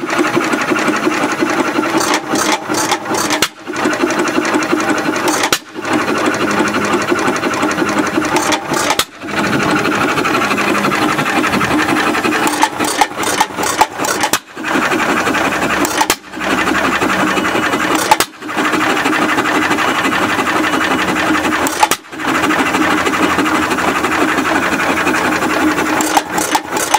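Rebuilt antique Alamo Empire single-cylinder hit-and-miss stationary engine running with a fast, rattling chug, broken by several short gaps.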